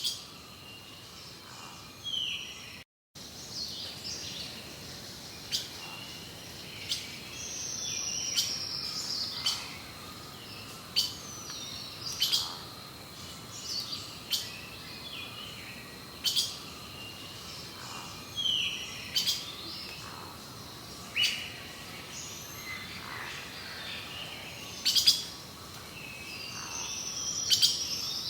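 Birds chirping: repeated short high calls, many sliding down in pitch, with sharp clicks between them. The sound drops out briefly about three seconds in.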